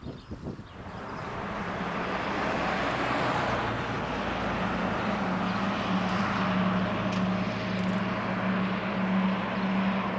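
Engine noise rising over the first two seconds, then running steadily with a low hum.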